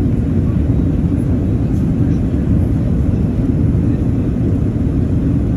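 Steady low rumble of an Airbus A380 airliner's engines and airflow, heard from inside the passenger cabin.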